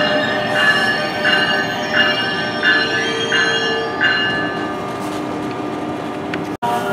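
NJ Transit electric commuter train's passenger cars rolling into the station and coming to a stop about four seconds in. A high ringing tone repeats about every 0.7 seconds while the train moves and stops once it halts.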